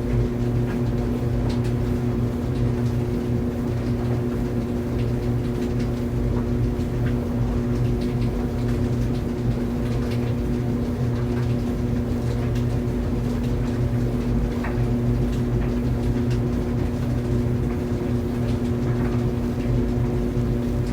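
Clothes dryer running: a steady motor hum and drum rumble, with faint irregular ticks scattered through it.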